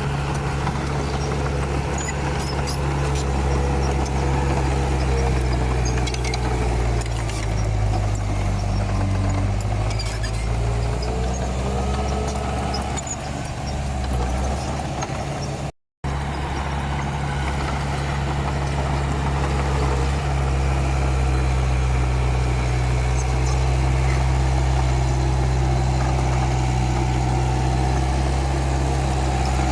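Komatsu D31P bulldozer's diesel engine running steadily, its pitch sagging for a few seconds near the middle as it labours. The sound cuts out for an instant just past halfway, then the engine runs on.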